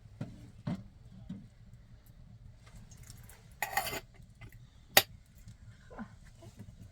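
A few light knocks and clatters of things being handled, with a short rustling burst in the middle and one sharp click about five seconds in.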